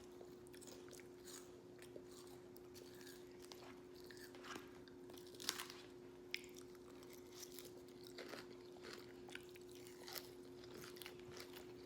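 Faint sounds of a person eating a rice bowl with a spoon: scattered clicks and crunchy chewing, a few sharper clicks around the middle. A steady low hum runs underneath.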